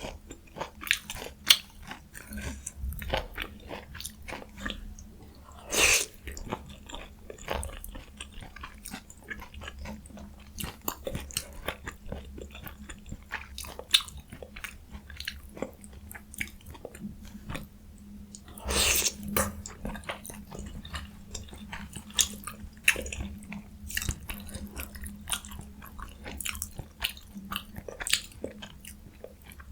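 Close-miked eating of jjajang ramyun noodles and young radish kimchi: wet chewing with frequent sharp crunches and clicks. Two longer, louder noises come about 6 and 19 seconds in.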